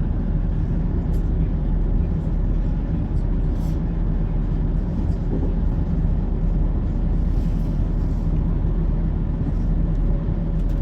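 Class 170 Turbostar diesel multiple unit running along the line, heard from inside the carriage: a steady low rumble of the underfloor diesel engine and the wheels on the rails, with a few faint clicks.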